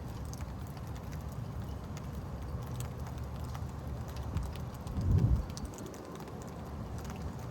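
Steady rain during a thunderstorm, with scattered drops ticking close by, and one brief low thump about five seconds in.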